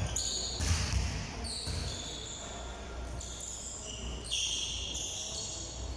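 A basketball bouncing repeatedly on a court, with short high-pitched squeaks over the thumps.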